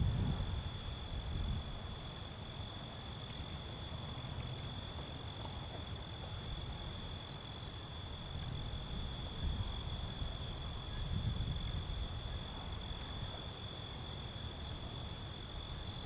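Steady insect chorus, typical of crickets: one unbroken high-pitched trill with a fainter pulsing note above it, and a low uneven rumble underneath.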